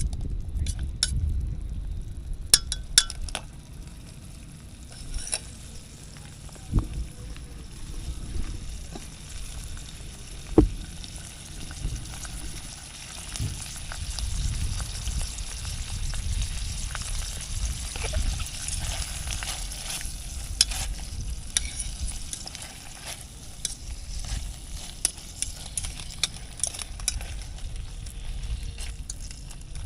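Food frying in a pan with a steady sizzle, and occasional clicks and taps from a utensil stirring it.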